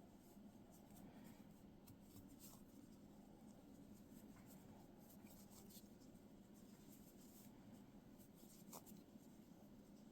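Faint scratching and rustling of yarn drawn through loops on a crochet hook, many small irregular ticks while single crochet stitches are worked into a magic circle, over a low steady hum.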